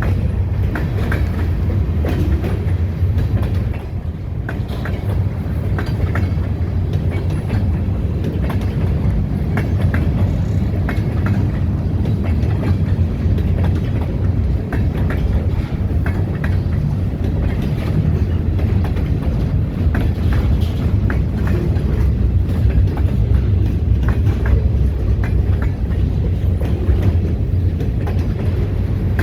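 Freight cars of a long train rolling past: a steady, heavy low rumble of steel wheels on rail, with scattered clicks and clanks from the wheels and cars.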